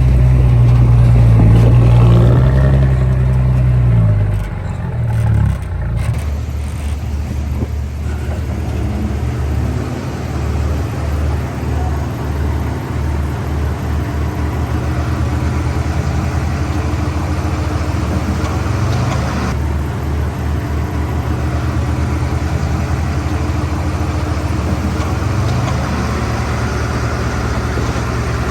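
Heavy diesel engine of earthmoving machinery running under load, loudest for the first few seconds and then settling to a steady, pulsing low drone.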